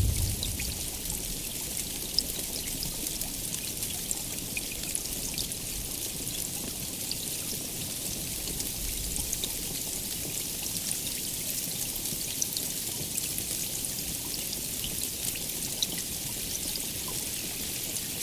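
Steady heavy rain hissing, with many separate drops ticking through it. The last of a low thunder rumble dies away in the first moment.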